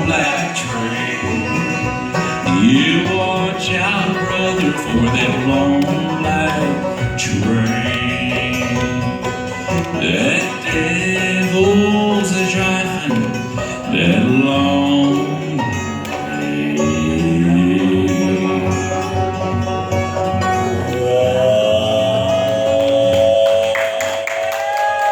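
A bluegrass band playing live, banjo and guitar picking through the end of the song, which settles onto a long held final chord about 21 seconds in.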